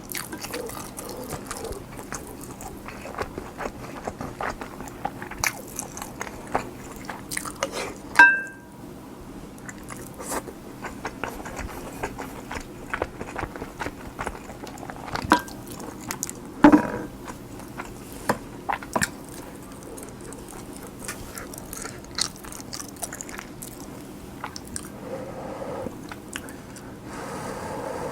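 Chewing and eating kimchi fried rice, a steady run of small wet mouth clicks. A sharp ringing clink, the loudest sound, comes about eight seconds in, with two more clinks around fifteen to seventeen seconds, like a spoon striking the dish.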